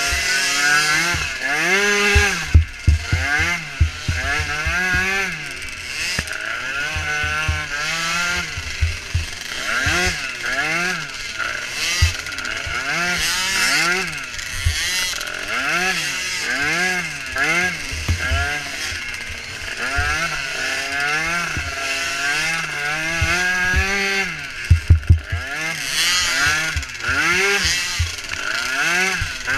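Small single-cylinder micro ATV engines revving up and down over and over as the quads race over rough ground, with a few thuds of the machines landing.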